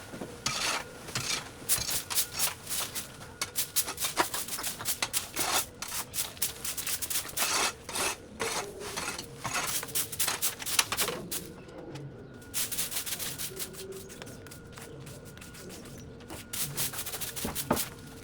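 Rapid, irregular scraping and rubbing strokes, thinning out for a few seconds about two-thirds of the way through, then picking up again.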